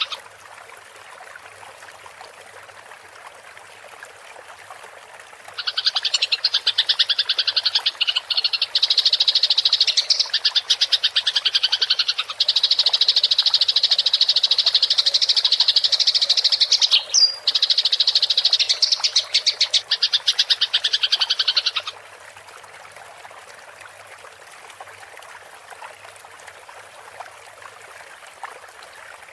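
Eurasian tree sparrows giving a fast, continuous rattling chatter, the calls of sparrows fighting, for about sixteen seconds in the middle. Before and after it there is only a soft, steady running-water sound.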